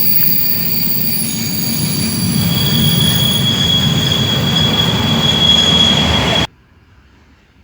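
Loud low rumble with several high, steady squealing tones over it, one rising in strength about two and a half seconds in; it all cuts off suddenly about six and a half seconds in, leaving only a faint hiss.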